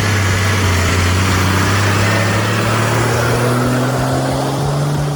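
Heavy vehicle engine running steadily under load, its pitch rising slightly after about three seconds.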